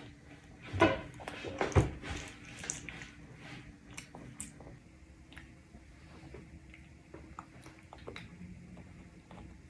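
A toddler chewing food, with two louder mouth noises about one and two seconds in, then quieter, scattered chewing sounds.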